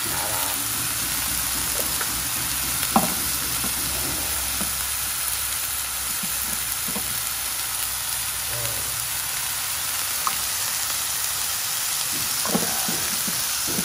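Sliced bitter gourd, chillies and garlic sizzling in hot oil in a nonstick frying pan, a steady hiss. A sharp click about three seconds in and a few fainter knocks.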